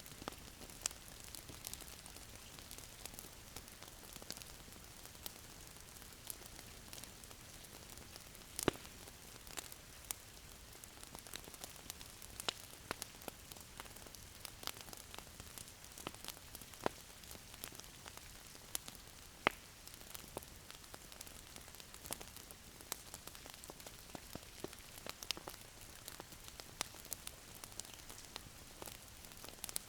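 Wood fire crackling in a fireplace: a soft steady hiss with irregular sharp pops, a few of them louder.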